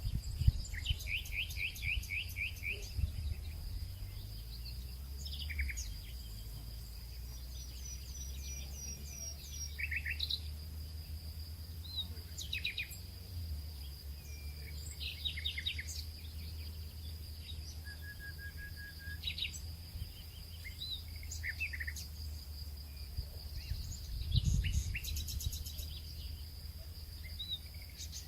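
Nature ambience: birds chirping and trilling in short, scattered phrases over a steady high-pitched insect drone, with a low rumble underneath.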